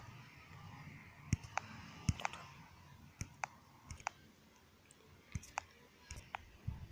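Faint, irregular clicks and light taps, about a dozen spread unevenly through the stretch, over a quiet background.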